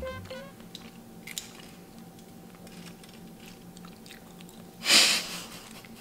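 People chewing mouthfuls of soft homemade cupcake, quiet mouth and chewing sounds with a few faint clicks. A short loud breathy burst comes near the end. A music passage fades out right at the start.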